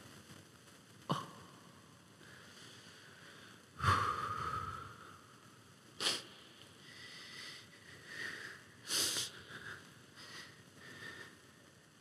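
A few short sniffs and breaths over quiet room tone, the longest about four seconds in.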